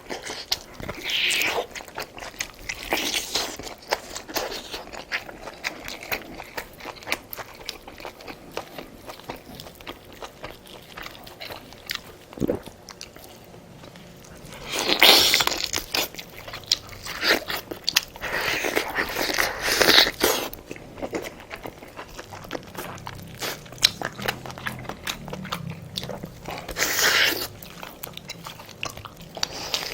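Close-miked eating: a person chewing and biting food, with many small wet mouth clicks and several louder bouts of crunching, the loudest about halfway through.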